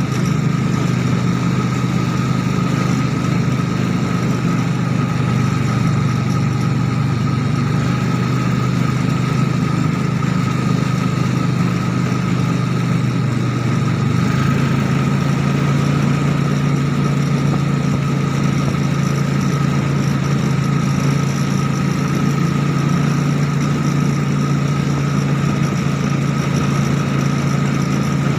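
Three-wheeler motorcycle engine in a home-built mini Willys Jeep, running steadily at low revs. Its hum steps up slightly in pitch about halfway through.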